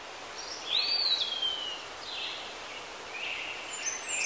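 Birds calling: short whistled notes and chirps, one rising and then slowly falling about a second in, over a steady outdoor hiss.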